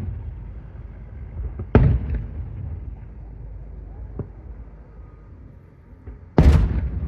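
Aerial fireworks shells bursting: two loud booms, one about two seconds in and one near the end, each trailing off in a rolling rumble, with a smaller crack between them.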